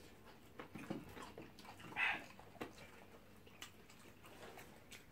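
Quiet eating noises of people chewing fried plantain: faint lip smacks and mouth clicks, with one short hiss about two seconds in.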